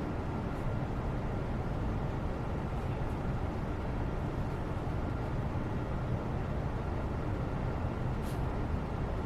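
Steady low background noise, even throughout, with one faint short tick near the end.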